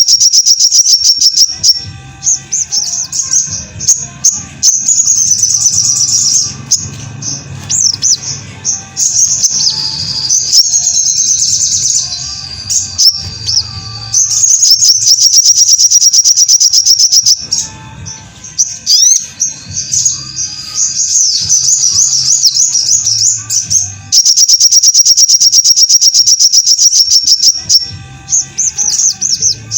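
Little spiderhunter (sogok ontong) song: long runs of fast, evenly repeated high notes alternating with varied, rapid warbling phrases.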